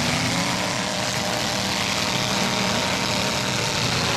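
Several demolition derby trucks' engines running together, a steady loud mix of engine notes at different pitches that shift slightly as the drivers work the throttles.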